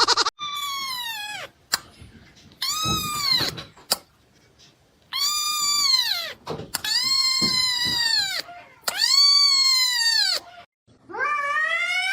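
A cat meowing over and over: about six drawn-out meows, each about a second long, rising and then falling in pitch.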